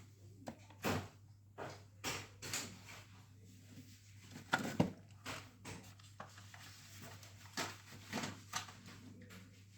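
Scattered light clicks and taps from small parts being handled during a mini speaker repair, over a steady low hum.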